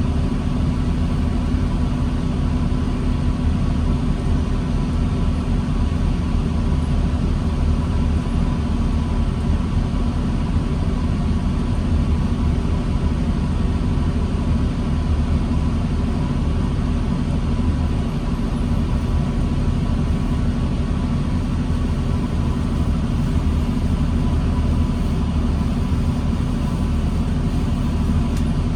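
2009 New Flyer D40LFR transit bus's diesel engine idling steadily, a constant low rumble with a faint steady high-pitched tone on top.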